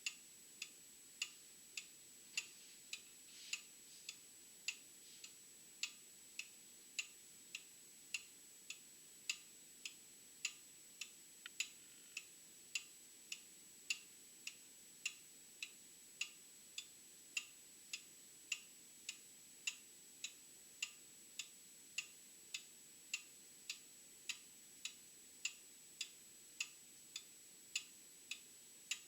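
Old mechanical clock ticking steadily, a little under two ticks a second.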